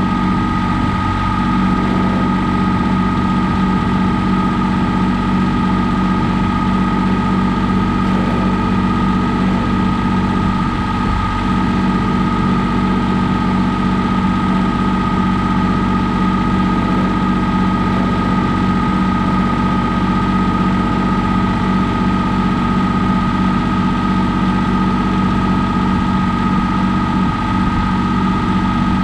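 John Deere 855 compact tractor's diesel engine running at a steady speed, with a constant high whine over its drone.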